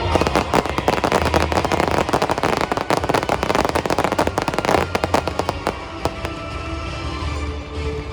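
Aerial fireworks going off in a dense, rapid crackle for about six seconds, then thinning out, with music playing underneath.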